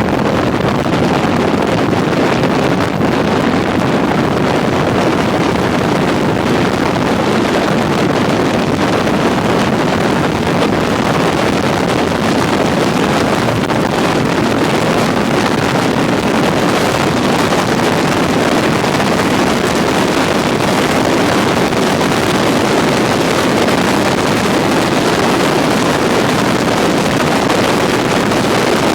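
Steady wind rush buffeting the microphone of a camera on a moving touring motorcycle, with road and engine noise blended underneath and no distinct engine tone.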